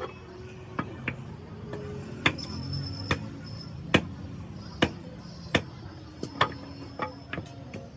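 Hammer blows, a dozen or so sharp irregular strikes about one to two a second, some with a brief metallic ring.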